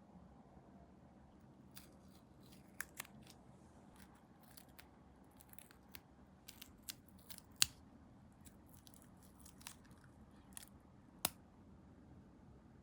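Scattered small, sharp clicks and snips from working with small plastic model-kit parts and hobby tools, about a dozen in all, the loudest about two-thirds of the way through and another near the end.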